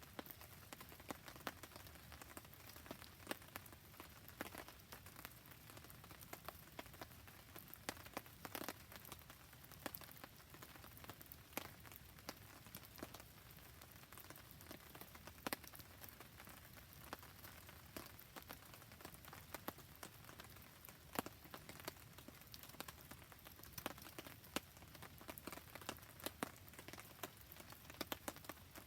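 Steady light rain falling, a soft even hiss with many sharp ticks and pops scattered through it.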